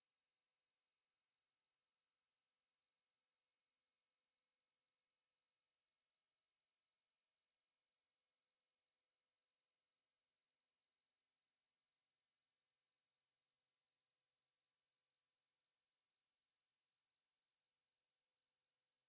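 A steady, high-pitched 4736 Hz sine test tone, one pure pitch held at a constant level.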